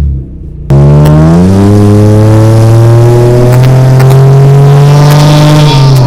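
Honda J30A4 3.0-litre V6 running with no exhaust at all, heard from inside the cabin. It goes briefly quieter, then comes on hard at full throttle about a second in, the revs climbing steadily for about five seconds before the throttle is let off near the end.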